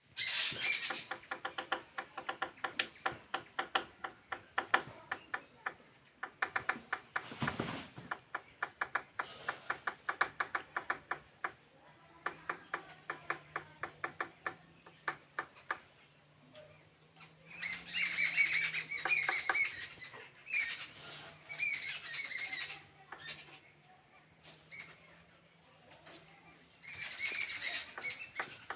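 Sharp taps in quick even succession, several a second, through the first half: a woodpecker pecking. Then three bursts of harsh chattering calls from jungle babblers.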